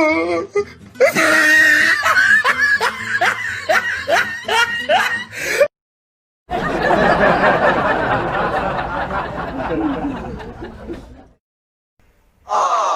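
A run of meme sound-effect clips: first a person snickering in rapid, evenly repeated bursts for about five seconds, then after a brief silence a denser, busier clip of about five seconds that fades out, and near the end another short clip begins.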